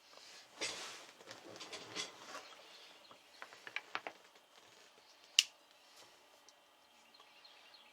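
Rustling and light clicking of a soldering station and its packaging being handled, with one sharp click about five and a half seconds in.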